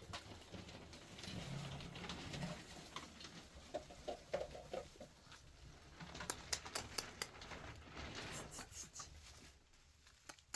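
A bird calling in a short run of repeated notes about four seconds in, followed a couple of seconds later by a quick series of sharp clicks.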